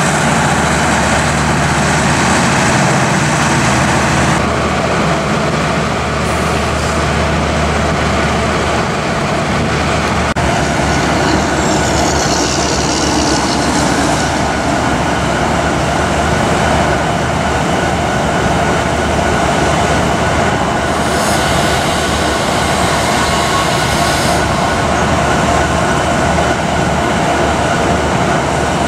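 Union Pacific passenger train hauled by a diesel locomotive rolling past: a steady rumble of engine and wheels on the rails, with a few sudden changes in its sound.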